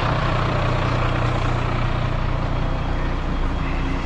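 Heavy diesel truck engine running steadily with a low, even hum.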